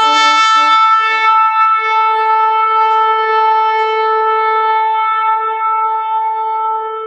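A shofar blown in one long, steady blast, opening with a lower note underneath for about the first second and fading near the end.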